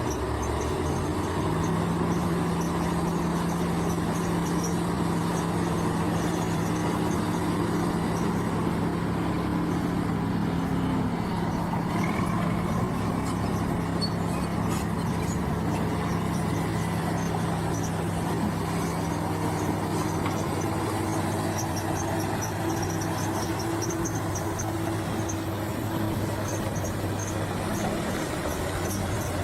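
Heavy diesel engine of a bulldozer running steadily under load, a low even drone whose note shifts slightly about two-thirds of the way through.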